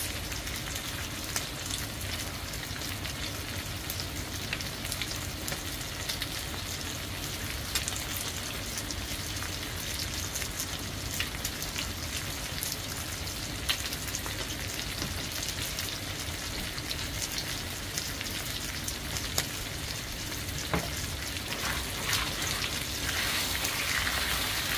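Chicken pieces and sausage frying in a hot pan: a steady sizzle with scattered pops and crackles, growing louder near the end as the pan is stirred with a spatula.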